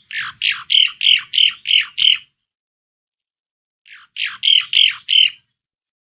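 Asian pied starling (jalak suren) calling: a quick run of about seven loud notes, a pause of about a second and a half, then about five more.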